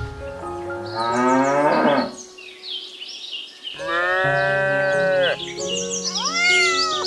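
Cow moo sound effects over background music: a rising call a second in, then one long moo about four seconds in, and a short call that rises and falls near the end.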